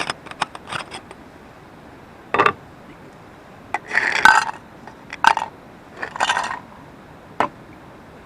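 Irregular clinks and short scrapes of hard objects being handled, with a few clustered bursts and single sharp clicks spread across the stretch.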